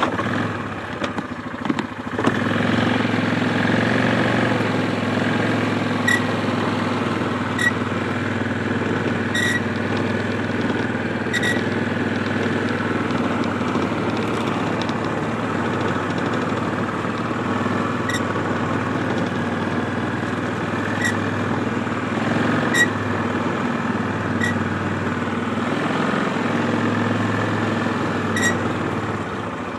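ATV engine running steadily while pushing a snow plow through slush, dropping briefly and picking up again about two seconds in. A brief high squeak cuts through every few seconds.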